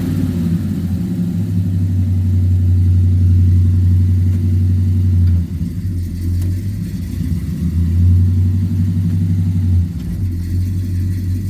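Cold-started old Chevy pickup engine running loudly at a steady idle. Its note shifts about five and a half seconds in and again near ten seconds.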